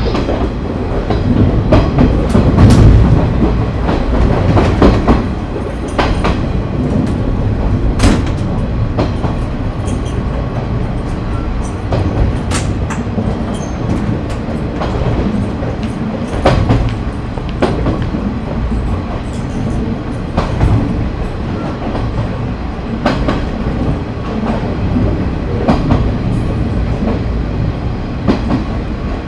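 Interior running sound of a JNR KiHa 30 diesel railcar with a DMH17-series diesel engine, moving along the line: a steady low rumble of engine and running gear, with the wheels clacking over rail joints every second or so.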